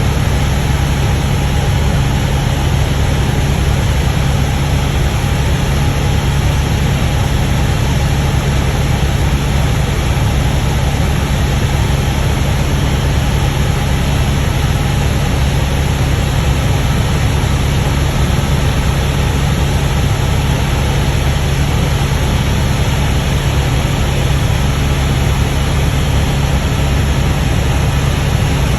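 Helicopter in flight, heard from on board: a steady low drone of engine and rotor with a broad rushing noise above it.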